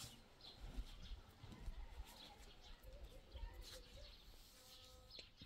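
Near silence, with faint scattered bird chirps and a low, uneven wind rumble on the microphone.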